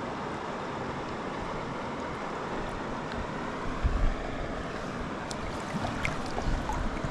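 Steady rush of river water, with a couple of low thumps about four seconds in.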